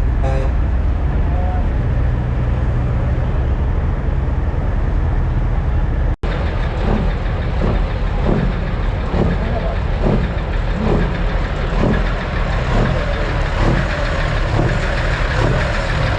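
Semi-truck diesel engines running with a steady low rumble, and people talking in the background. After a brief dropout about six seconds in, a regular pulsing of a little more than one beat a second runs through the sound.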